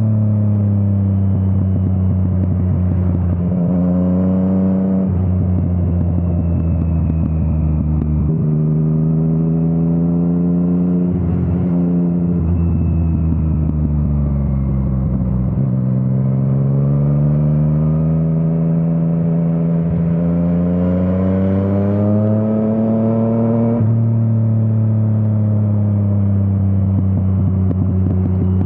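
Yamaha MT-09's inline-three engine through an Akrapovič exhaust, pulling through the gears: the pitch climbs and drops sharply at each upshift. Near the middle it winds down as the rider rolls off, then climbs again under acceleration.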